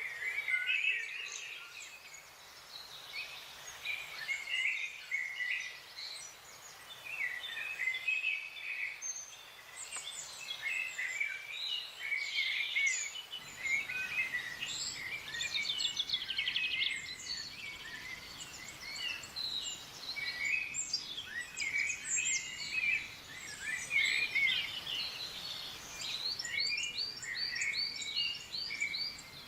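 Several wild birds calling and singing at once: a dense, overlapping chorus of chirps, trills and quick note series. Steady background noise sits underneath and gets a little fuller about halfway through.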